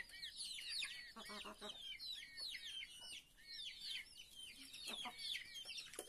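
A flock of young chickens peeping: many short, high-pitched chirps overlapping throughout, with a lower clucking call about a second and a half in.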